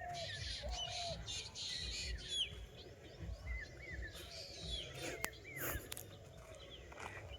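Several wild birds calling in forest: short, quick chirps and sweeping notes high up, with a lower repeated call in the first second, over a low uneven rumble and a few sharp clicks.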